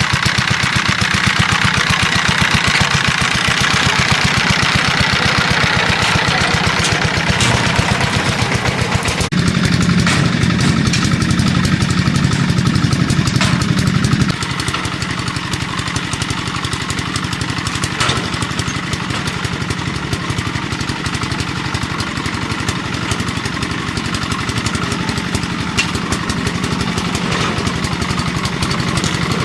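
A small engine running steadily, its firing an even, fast pulse, with abrupt shifts in its low tone about nine and fourteen seconds in.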